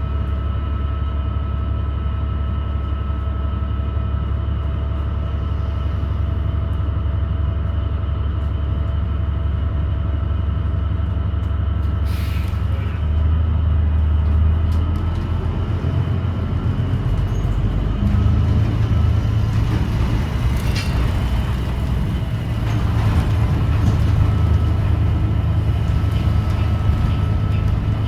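Inside a 2017 New Flyer XDE40 diesel-electric hybrid bus under way: a steady low drivetrain drone with several steady whining tones over it, the drone rising and falling as the bus changes speed, and a short hiss about twelve seconds in. The odd whine is what the owner takes for a weird transmission, or possibly a loose screw or panel, rather than an engine problem.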